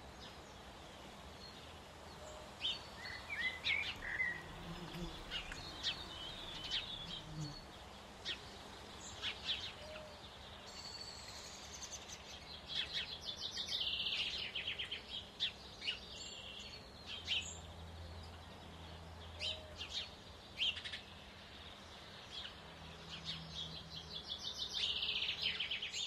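Songbirds chirping and singing, with rapid trills in the middle and near the end, over a faint steady outdoor background. A faint low hum comes and goes.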